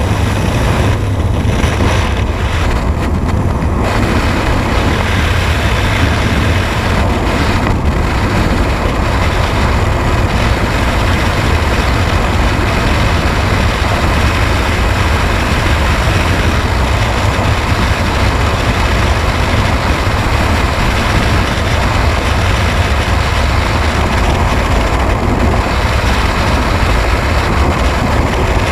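An engine running steadily with a constant low rumble throughout.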